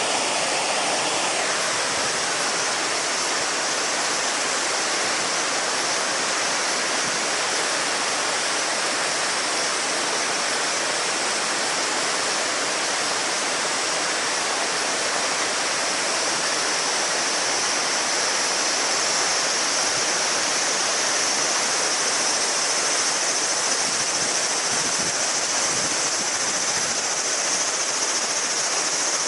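River water rushing and babbling over stones, with a steady chorus of cicadas shrilling high above it that grows louder about halfway through.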